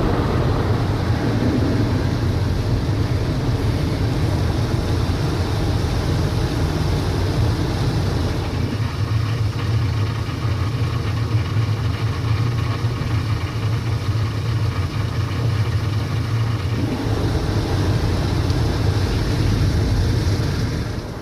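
Automatic car wash machinery running, heard from inside the car: a steady rumble and spray noise, with a higher machine whine joining from about nine seconds in until about seventeen seconds.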